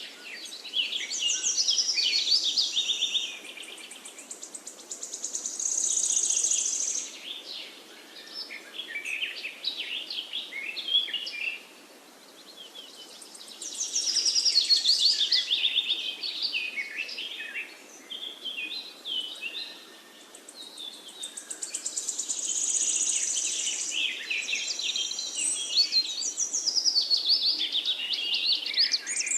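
Songbirds singing: bouts of rapid chirps and trilled phrases lasting a few seconds each, with short pauses between them.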